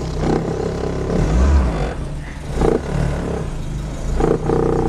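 VW Scirocco GTX's freshly rebuilt DX 1.8-litre four-cylinder engine idling just after a cold start, heard from inside the cabin. A brief deeper surge comes about a second and a half in.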